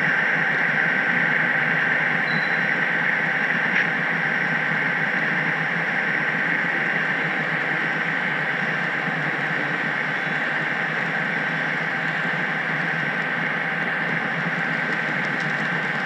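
HO-scale model train running along the track, picked up by a camera riding on the caboose: a steady rolling whir from wheels and motor, with one small click about four seconds in.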